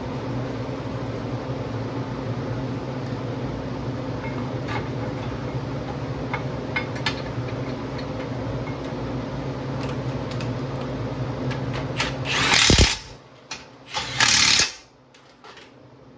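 A steady mechanical hum from a running motor, broken near the end by two short, loud bursts of hissing noise about a second and a half apart, after which the hum stops.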